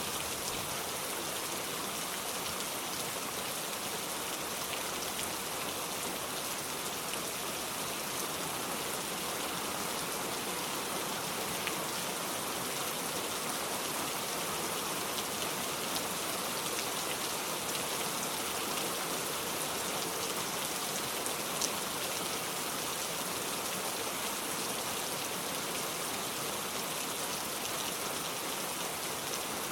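Steady rain, an even hiss with a few sharper drop ticks, one standing out a little past the middle.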